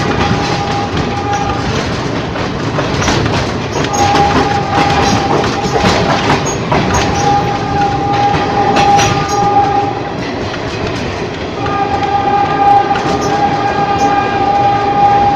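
Ex-JR 203 series electric multiple unit running on the rails: a steady rumble with wheels clicking over rail joints. A steady high tone comes and goes over it, dropping out briefly after the first second or so, sounding again for about six seconds from about four seconds in, and returning near the end.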